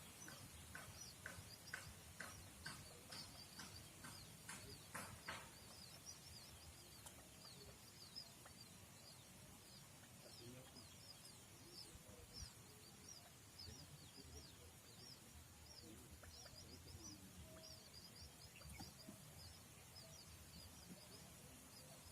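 Faint, high-pitched chirping of small birds: many short cheeps in quick succession, with a run of about a dozen sharper calls, roughly two a second, in the first five seconds.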